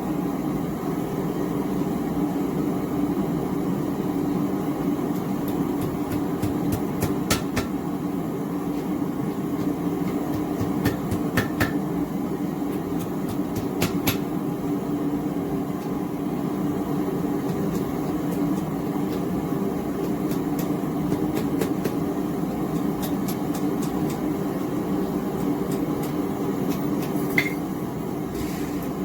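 Small gas forge burner running steadily, with a few scattered light metallic knocks and clicks.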